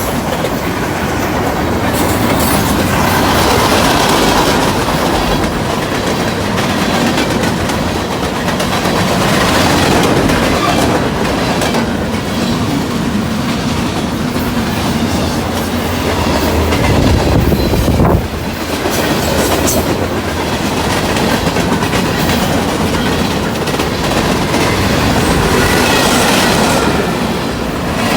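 Freight train rolling past close by: a steady, loud rush of wheel-on-rail noise with the cars clattering over the rail joints, briefly dipping about eighteen seconds in.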